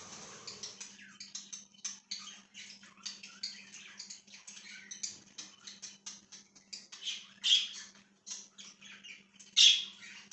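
A flock of budgerigars chirping and chattering in a rapid, continuous run of short high chirps, with two louder squawks at about seven and a half and nine and a half seconds in.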